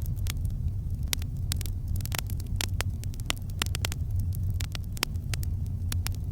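Campfire crackling, with many irregular sharp snaps and pops, several a second, over a steady low rumble.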